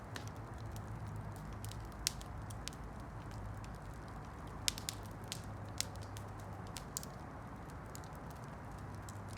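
Wood campfire crackling: irregular sharp pops and snaps over a steady low rumble of the burning fire, with a few louder pops about two, five and six seconds in.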